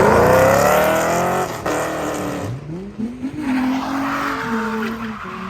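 Car engine revving hard, its pitch climbing at the start, dropping away about two and a half seconds in, then revving up again and rising and falling.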